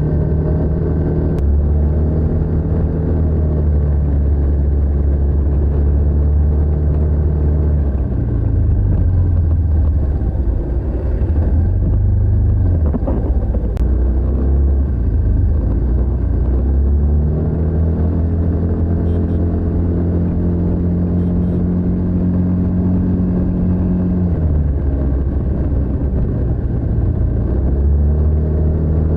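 TVS NTorq 125 scooter's single-cylinder four-stroke engine through its stock exhaust, under way. It holds a steady note, then the throttle is eased off and the pitch drops about eight seconds in. It pulls up again to a steady higher note around seventeen seconds, then drops again near twenty-four seconds.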